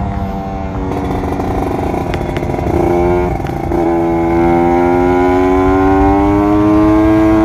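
Kawasaki Ninja 150 RR two-stroke single-cylinder engine, heard while riding. Its note breaks off briefly about three seconds in and comes back lower, like an upshift, then rises slowly and steadily as the bike pulls.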